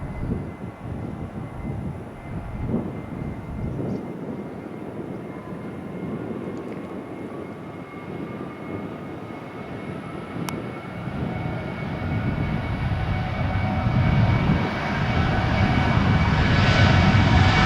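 Jet aircraft engines growing steadily louder as the aircraft draws near, a rumble with a whine that rises in pitch through the second half.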